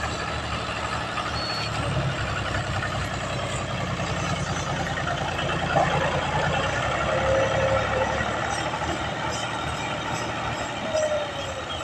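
Al-Ghazi tractor's diesel engine running steadily with an even low throb.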